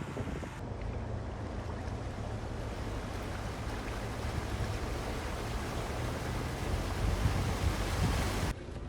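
A steady rushing noise with a low hum under it, like wind on the microphone outdoors. The sound changes abruptly just after the start and again shortly before the end.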